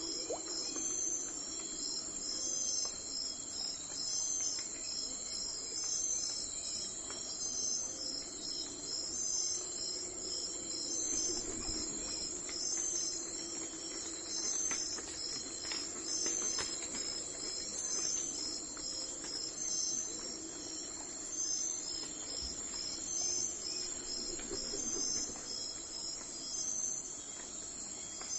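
Crickets chirping in a steady chorus: high-pitched chirps repeating at an even pace over a continuous high trill.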